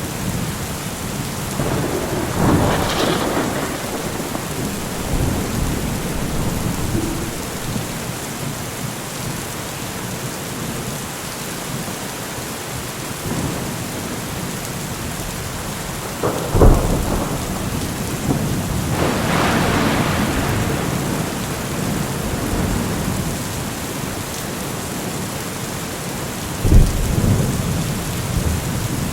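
Steady heavy rain with thunder: a rumbling peal a few seconds in and another long rumble a little past two-thirds of the way through. Two sharp, loud thunder cracks come a little past halfway and near the end.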